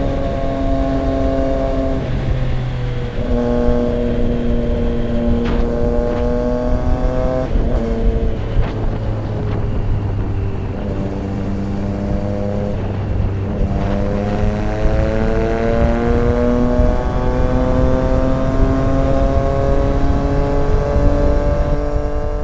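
Triumph Street Triple 765 RX's three-cylinder engine through an SC Project S1 exhaust, heard from the rider's seat. It pulls through the gears, its pitch climbing and stepping down at each shift, with a stretch of lower, steadier running in the middle and a few sharp cracks.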